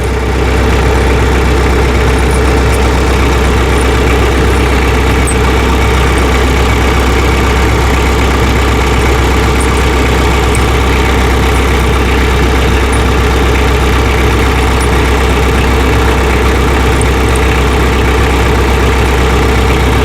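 Tractor engine idling steadily, with a few faint high clicks over it.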